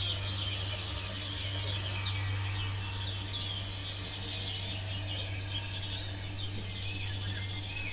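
Birds chirping and twittering over a steady low hum.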